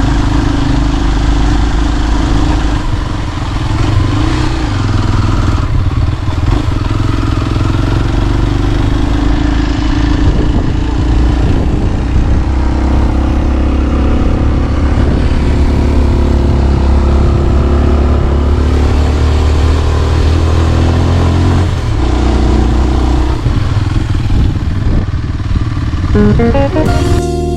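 A motor vehicle's engine running as it drives, its pitch rising and falling with the throttle. Music with plucked notes comes in near the end.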